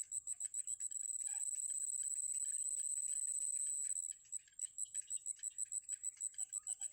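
An insect trilling: a continuous high-pitched buzz that breaks into rapid even pulses, about four a second, from about four seconds in. A few faint chirps come near the end.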